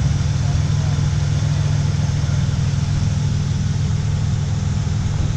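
A vehicle engine idling steadily at an even pitch.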